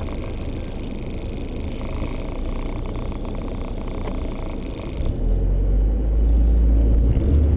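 A Honda Civic's engine idling, heard from inside the cabin. About five seconds in it gets louder, with a deep rumble, as the engine is revved at the start line.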